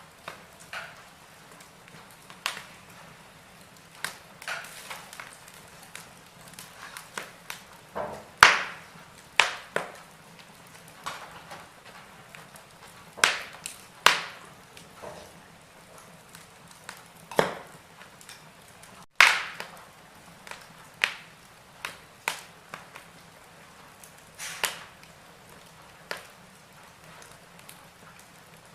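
Wood fire crackling in a fireplace: irregular sharp pops and snaps of burning logs over a faint steady hiss, the loudest cracks about eight, fourteen and nineteen seconds in.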